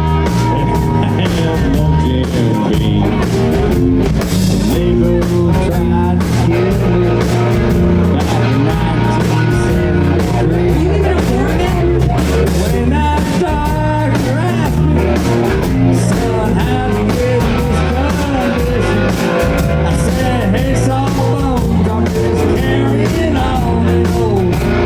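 Live rock band playing, with drum kit, guitar and singing.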